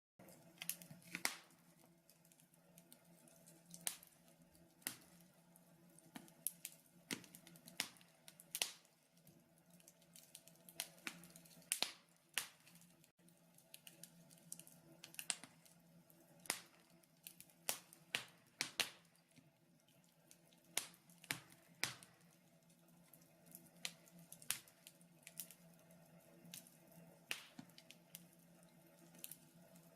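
Wood fire crackling in a fireplace: irregular sharp snaps and pops, one or two a second, over a faint low hum.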